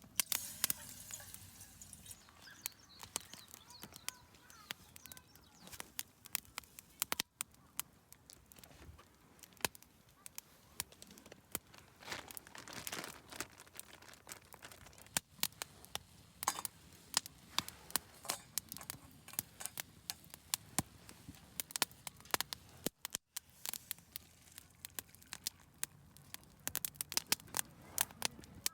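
Wood campfire crackling, with many irregular sharp pops and snaps over a faint hiss.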